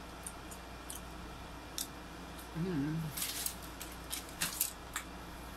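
Close-miked mouth sounds of eating roast chicken: wet chewing and lip-smacking clicks, with denser smacking bursts in the second half. A short hummed 'mm' comes about two and a half seconds in.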